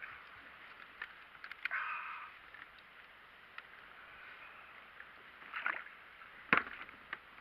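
Water sloshing against a fishing kayak's hull, with scattered clicks and knocks. The loudest is a single sharp knock near the end.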